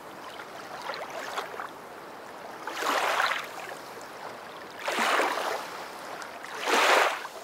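Washing water noise, probably a background water track, rising into three swells about two seconds apart, like surf washing in.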